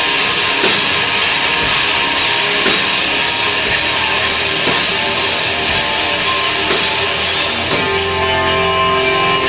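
Loud heavy rock music with distorted electric guitar. About eight seconds in, the dense wall of sound gives way to held, ringing notes.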